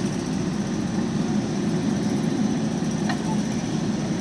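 JCB backhoe loader's diesel engine running steadily with an even low drone.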